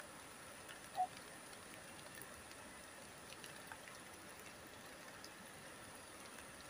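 Light drizzle pattering steadily, with scattered faint drop ticks over a soft wash of water. About a second in there is one short pitched blip.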